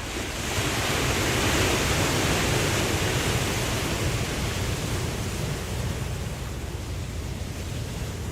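Ocean surf: a wave breaks and washes in, the rush of water swelling about half a second in and then slowly easing off.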